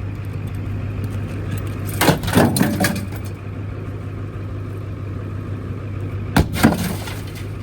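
Heavy thrown metal object striking a pickup's rear window glass and clattering, a cluster of several hits about two seconds in and two sharp hits about six and a half seconds in, over the steady low hum of an idling engine.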